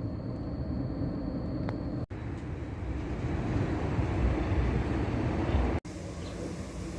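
Car running, a steady low rumble of engine and road noise as it pulls up, broken abruptly twice by edit cuts.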